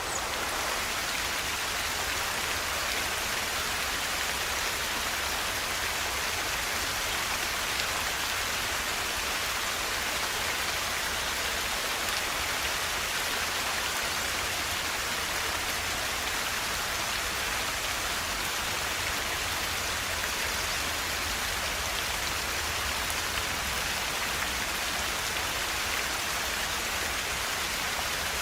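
River water rushing steadily, an even hiss without breaks, a little brighter and louder right at the start.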